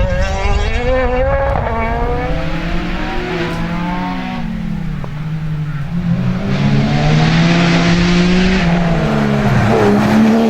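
Rally car engine at full throttle, its pitch climbing and dropping several times through gear changes and lifts off the throttle. A broad hiss of tyre and road noise rises with it in the second half.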